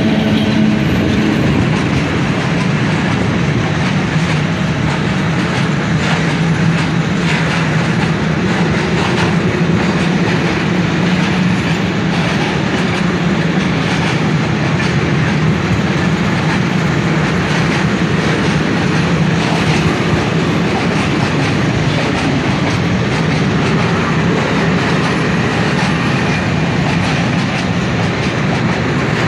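A train running steadily on the rails, its wheels clattering over rail joints, with a steady low hum.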